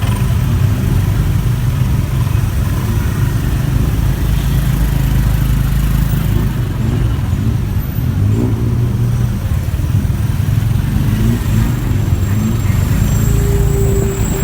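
Motorbike riding through city traffic: the engine runs under steady rumbling road and wind noise, with several short rising revs in the second half.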